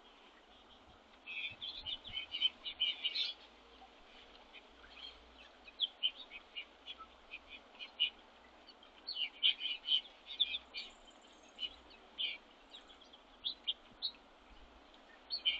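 Small songbirds chirping in short, high bursts, with clusters of quick chirps coming and going every few seconds.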